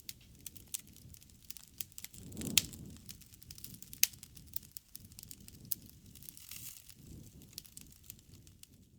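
Wood campfire crackling and popping: many small sharp snaps over a low, steady rush of burning, with the loudest pops about two and a half seconds in and again at four seconds.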